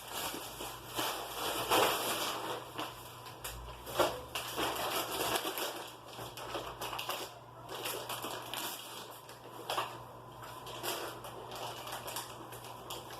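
Packaging crinkling and crunching as it is handled, in uneven spurts with a few sharper cracks, the loudest about four seconds in.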